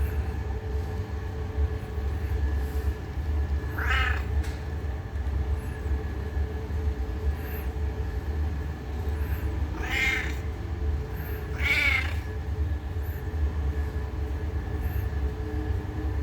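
An old cat meowing three times, short calls spaced a few seconds apart, over a steady low rumble.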